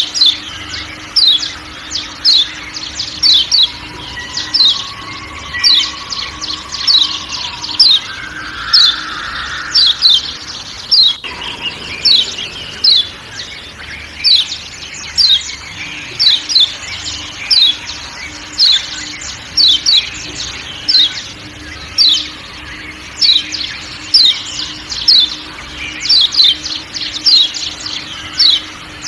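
Kecial kuning (Lombok white-eye) giving repeated sharp 'ciak ciak' calls: short, high notes sliding downward, often in pairs, about one burst a second, over a faint forest background.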